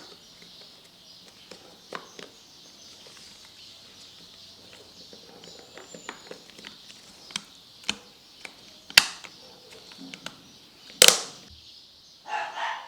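Hand-handling of a refrigerator fan motor and its plastic housing: scattered light clicks and knocks, with two sharp plastic snaps about nine seconds in and two seconds later as the motor is pressed in and locks into place.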